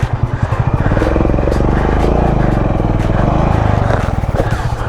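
Motorcycle engine revving hard under load, swelling about a second in and easing off near the end.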